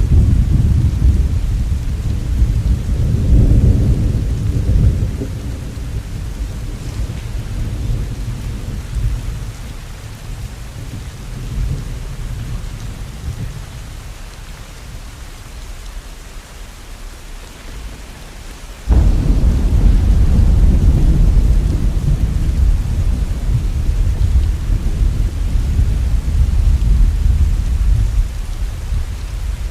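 Steady rain with rolling thunder. A low rumble dies away slowly over the first part, then a new thunderclap breaks in suddenly about two-thirds of the way through and rumbles on loudly.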